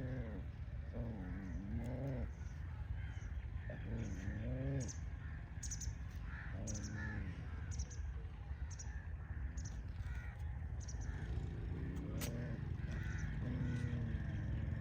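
Repeated drawn-out animal calls, about a second each and a few seconds apart, with short high chirps over a steady low background noise.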